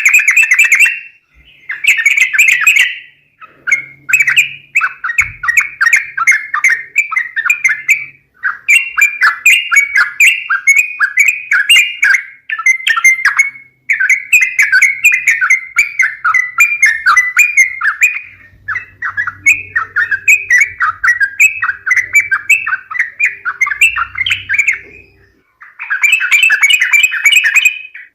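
Yellow-vented bulbul (trucukan) calls, a lure recording: fast, bubbly chattering notes in runs of several seconds separated by short pauses.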